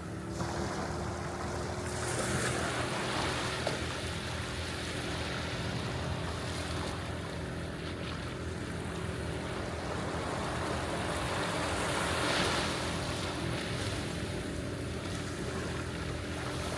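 Ocean surf washing onto the beach, with waves swelling and breaking about two seconds in and again about twelve seconds in. A steady low engine drone sits underneath.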